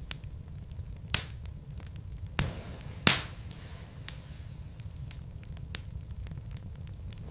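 Wood logs burning in a fireplace, crackling with scattered sharp pops over a low steady rumble. The loudest pop comes about three seconds in.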